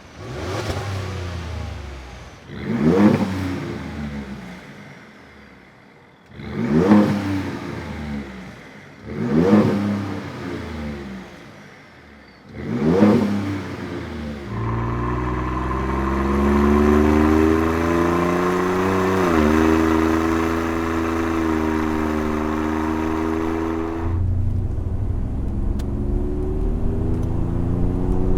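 Ford F-150's twin-turbo 3.5L EcoBoost V6 through a Borla S-Type stainless cat-back exhaust, revved sharply five times, each rev rising and falling away. It then runs steadily under throttle, shifting pitch about halfway, and drops to a lower steady note near the end.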